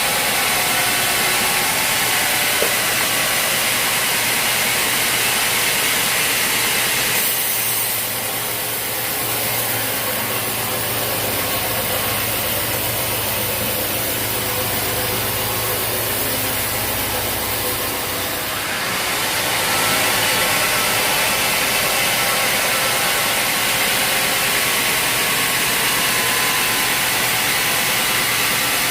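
Sawmill saw and its engine running while cutting a log: a loud, steady mechanical noise. For about ten seconds in the middle, the low engine hum comes up and the high cutting hiss falls away, then the cutting sound returns.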